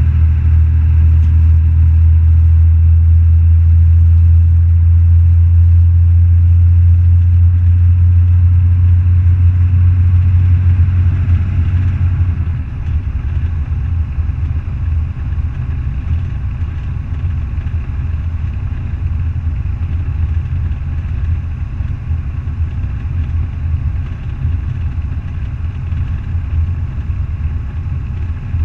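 Semi truck's diesel engine running with a steady low drone, which eases off and quietens a little about twelve seconds in.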